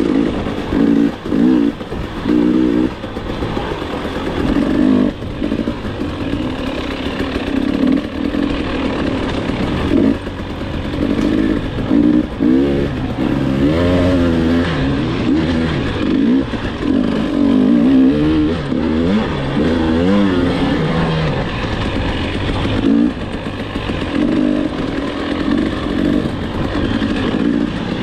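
Enduro dirt bike engine on the move, its pitch rising and falling over and over as the throttle is opened and shut and the gears are changed, with a rush of noise beneath it.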